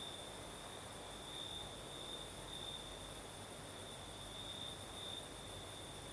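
Crickets chirring in a steady, high-pitched trill that swells and fades slightly every half second or so, over a soft, even hiss.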